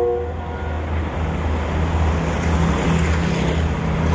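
A diesel train's horn cuts off right at the start, followed by steady engine rumble and running noise from the train close by.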